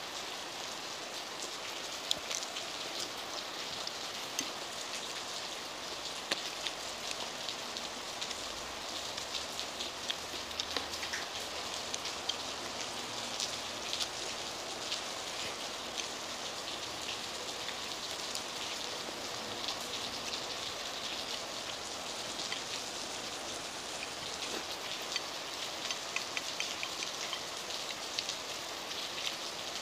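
Heavy rain falling steadily, a continuous hiss of a downpour with many small sharp drop ticks on nearby surfaces.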